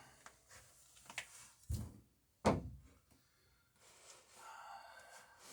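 Two light wooden knocks, the louder about two and a half seconds in, as a hand plane is set against the wooden planking to check a bevel, then a soft scrape near the end.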